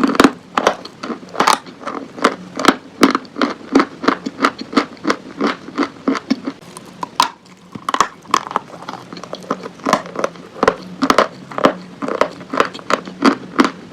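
Close-miked crunching and chewing of chalk: a quick run of sharp crunches, about three a second, with a short pause a little past halfway.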